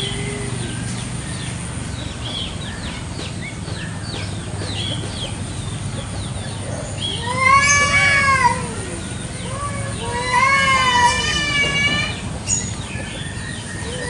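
Two domestic cats yowling in a territorial standoff: two long, wavering howls, the first about seven seconds in and the second about ten seconds in.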